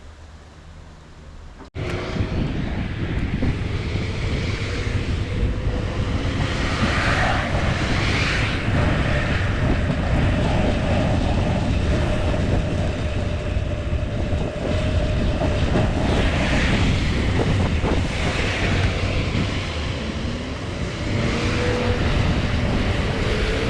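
Wind buffeting the microphone of a camera on a moving bicycle, with road traffic passing. The noise jumps up suddenly about two seconds in and swells twice as vehicles go by.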